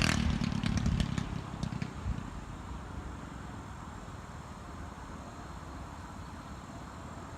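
Mini bike engine running, loud at first and fading over the first two seconds to a low, steady drone as the bike moves away.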